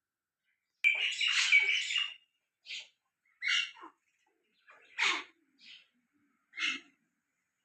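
Small birds chirping: a quick run of overlapping chirps about a second in, then five single short chirps spaced about a second apart.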